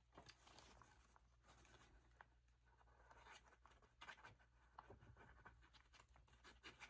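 Near silence with faint rustling and small taps of a paper strip being handled and folded over.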